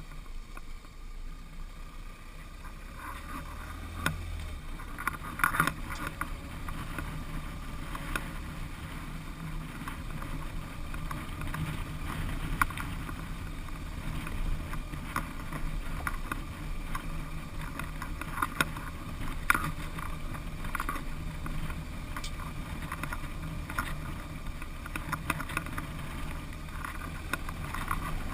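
Dual-sport motorcycle running steadily on a dirt road. Short knocks and rattles come now and then, scattered through the ride.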